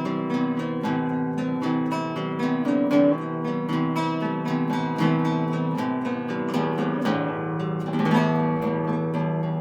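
Acoustic guitar music: a quick, continuous run of plucked notes over held bass notes.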